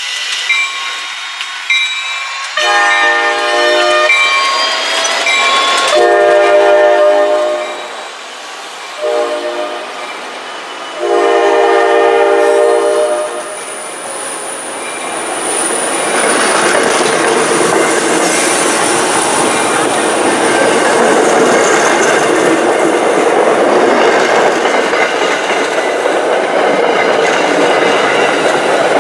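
MBTA commuter rail train's horn sounding the grade-crossing signal, long, long, short, long. The train then passes close by, with wheels clicking over the rail joints and a steady rumble, and a thin high whine for a few seconds.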